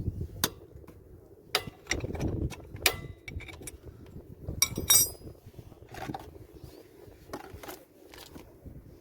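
Metal tools clinking and tapping on a motorcycle engine, with a few scrapes, while the oil cap is being undone for an oil change. The loudest metallic clatter comes about five seconds in.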